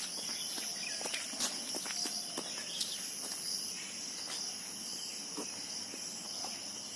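Insects, crickets by their sound, trilling in a steady high-pitched chorus, with scattered faint clicks and ticks.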